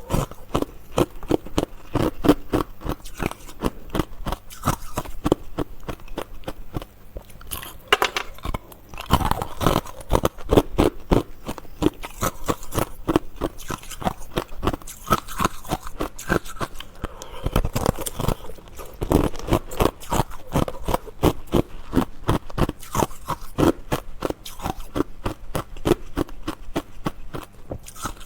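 Close-miked chewing and crunching of ice in the mouth: rapid crisp crunches, several a second, without a break.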